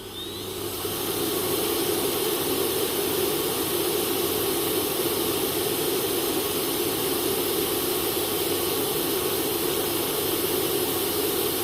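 The Proscenic M8 Pro's self-emptying dock running its suction motor to empty the robot vacuum's dustbin: a loud, steady rushing whir. It spins up with a rising whine over the first second or so and starts to wind down near the end.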